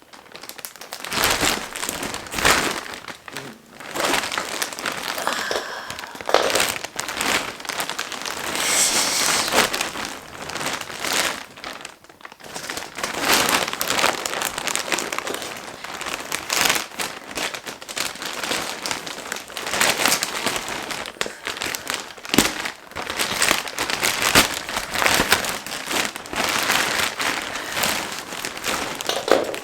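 Plastic Shein mailer bag and the plastic-wrapped clothes inside being handled and opened, crinkling and crackling on and off.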